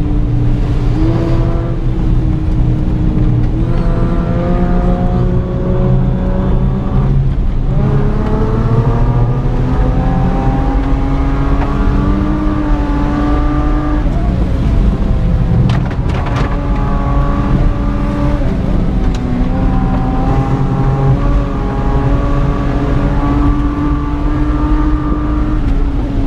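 Honda V6 with custom stainless headers and a straight-pipe exhaust with a Cherry Bomb muffler, heard from inside the car under way, loud, its revs climbing and falling several times with short drops as the throttle is lifted.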